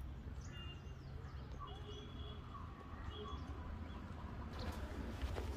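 Faint short bird chirps over a low steady rumble of wind and handling on the microphone, with footsteps on the path growing louder near the end.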